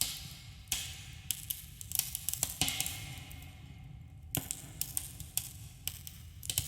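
Campfire burning, wood crackling and popping irregularly with sharp snaps and hissing between them over a low steady rumble.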